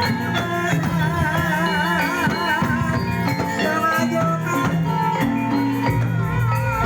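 Javanese gamelan music accompanying an ebeg horse dance: struck metallophones and percussion, with a wavering melody line above that comes in about a second in and again near the end.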